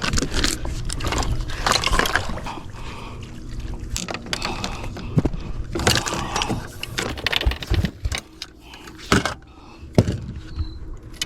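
Rattling, knocks and water splashes of gear being handled aboard a fishing boat, over a steady low hum.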